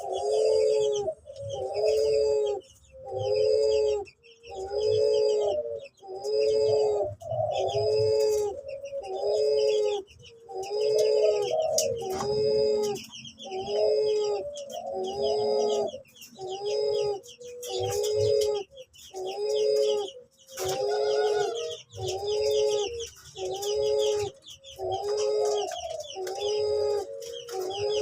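Cuhu, a hybrid of an uncal loreng cuckoo-dove and a puter pelung dove, cooing in a steady unbroken series: a low call repeated about once a second.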